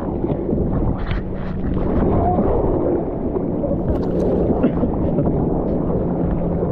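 Seawater sloshing and surging close to the microphone, heard muffled and low with a steady faint hum underneath.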